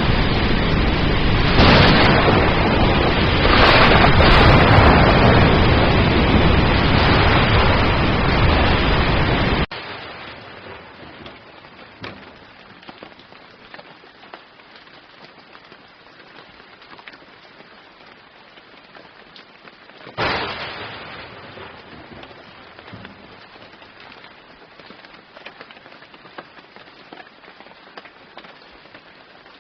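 Heavy rain falling with a loud, even hiss that swells twice, then cuts off abruptly to much lighter rain about ten seconds in. About twenty seconds in, a sudden thunderclap breaks out and fades over a couple of seconds.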